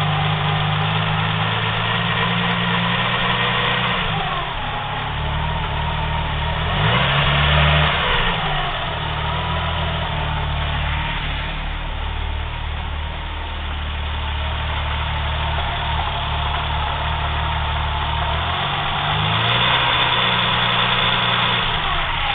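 BMW M20B25 straight-six engine running at idle, its speed rising and falling a few times, with the suspect noise from the timing belt area that appeared after a timing belt replacement and that the owner cannot identify.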